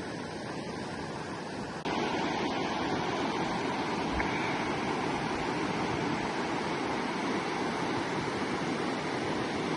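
Steady rush of flowing river water. The sound steps up suddenly about two seconds in, becoming louder and fuller.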